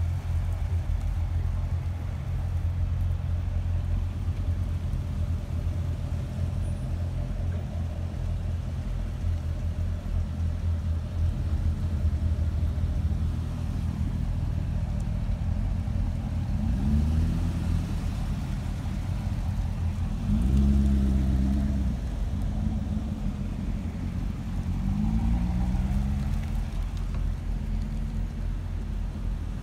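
Chevrolet Corvette V8 engines running as a line of Corvettes drives slowly past, a deep steady engine sound. Three times a car's engine note swells and glides up and down as it revs or passes, the loudest about twenty-one seconds in.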